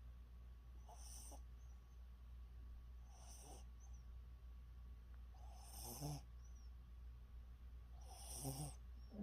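A dog snoring in its sleep: four slow, faint snoring breaths about two seconds apart, the last two a little louder, each followed by a short faint whistle.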